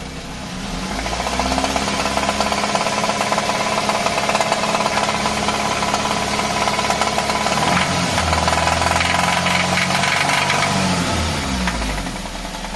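Worn vehicle engine running with a knocking rattle, typical of a tired engine. Its revs rise about a second in, hold steady, then shift and fall away near the end.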